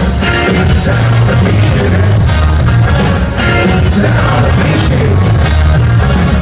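Live band playing loud rock and ska-style music with heavy bass and a steady beat, with singing over it.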